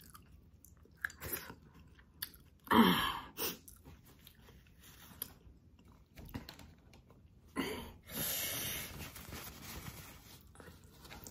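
Close-miked wet chewing and mouth sounds of a person eating saucy chicken adobo by hand, with a few short louder smacks and a hissing sound lasting about a second near eight seconds in.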